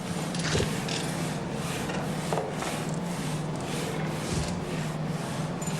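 Two-man crosscut saw cutting through an oak trunk: an even back-and-forth rasp of about two strokes a second, over a steady low hum.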